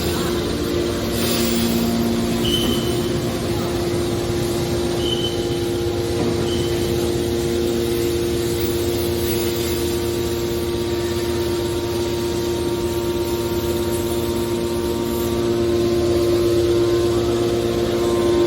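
Horizontal hydraulic scrap metal baler running: a steady, even hum of its motor and hydraulic pump, with three brief high squeaks in the first half.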